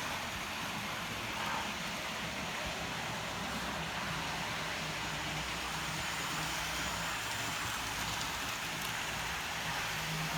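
Model train running on the layout: a steady low motor hum under an even rushing haze of wheels on the track.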